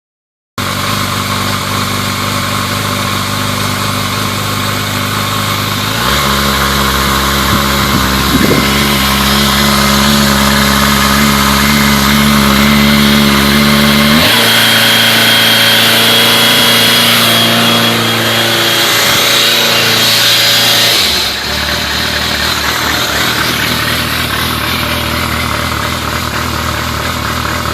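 Motorcycle engine idling steadily, its engine speed stepping up about six seconds in, with a brief throttle blip a couple of seconds later, shifting again around fourteen seconds and settling back to a lower idle a little past twenty seconds.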